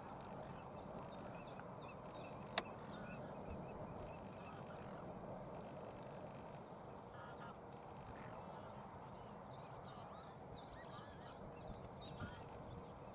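Wild birds calling over a steady background hiss, with a cluster of calls near the start and another about nine to twelve seconds in. A single sharp click about two and a half seconds in.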